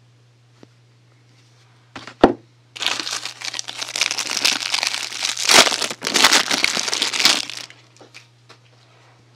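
A sharp snap about two seconds in, then about five seconds of loud crinkling as soap packaging is unwrapped by hand.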